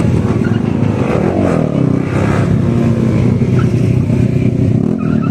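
Motorcycle engines running loud and steady, with some revving.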